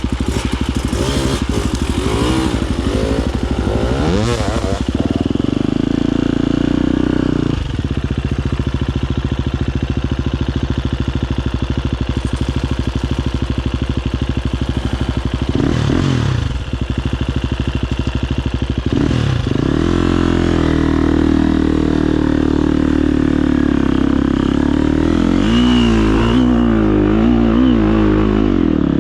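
Husqvarna FE250 single-cylinder four-stroke enduro engine running hard under throttle, held at high revs with brief drops and swoops in pitch a few times as the throttle is rolled off and back on. The revs waver unevenly near the end.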